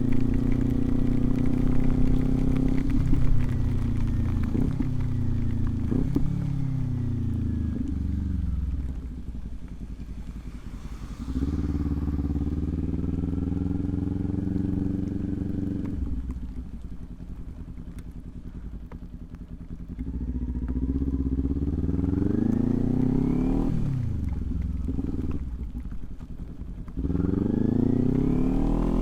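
Motorcycle engine under way, its pitch climbing and falling as the bike accelerates and slows. It drops to a quieter low note three times while the bike eases off.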